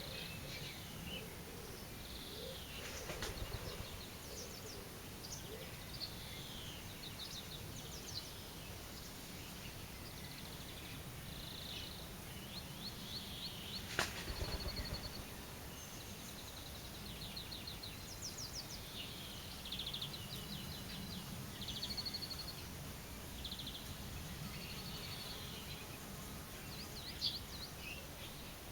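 Several small songbirds chirping and singing short rapid trills, over a low outdoor background hiss. There is one sharp click about halfway through.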